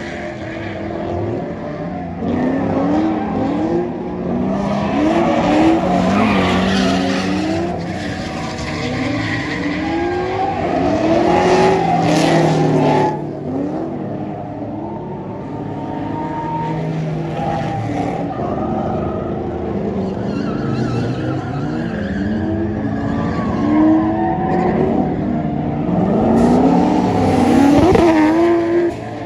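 Drift cars on track, engines revving up and down over and over with tyre noise as they slide through corners.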